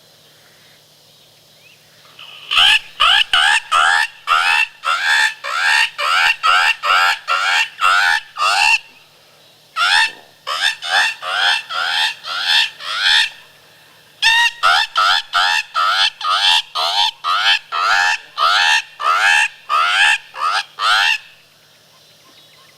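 A 3-reed double slash mouth diaphragm predator call blown as bird distress: rapid harsh squawks, each rising in pitch, about three a second, in three runs with short pauses between. It imitates a bird in distress to draw in bobcats and gray foxes.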